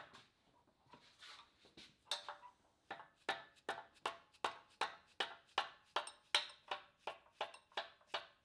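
Hammer blows on steel backhoe hardware, each strike ringing briefly. The blows come steadily, about two to three a second, after a quieter first two seconds.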